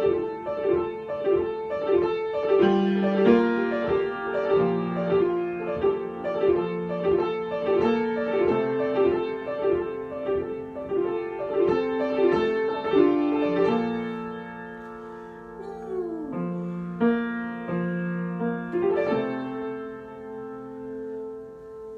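Solo piano improvisation: a quickly repeated figure of middle notes over changing bass notes, easing about fourteen seconds in into slower, held chords.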